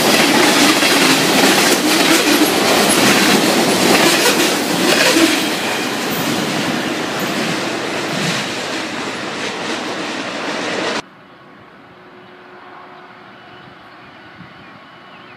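Norfolk Southern freight train's tank cars rolling past close by, wheels clattering over the rail joints, growing fainter as the end of the train moves away. About eleven seconds in it cuts off abruptly to a much quieter steady background.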